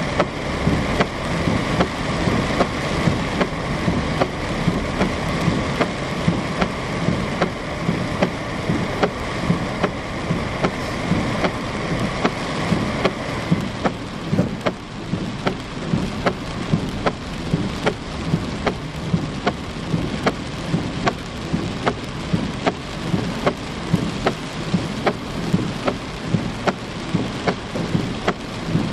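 Heavy rain falling steadily, with a sharp regular ticking about two to three times a second throughout; a faint steady tone underneath stops about halfway through.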